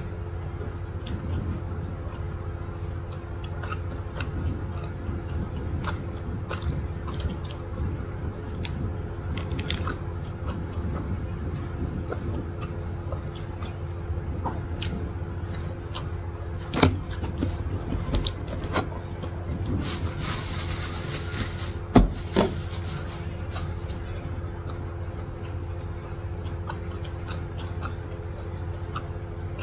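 Close-up chewing of a burger, with scattered wet mouth clicks, over a steady low background hum. A short rustle and a couple of sharper clicks come about 17 and 22 seconds in.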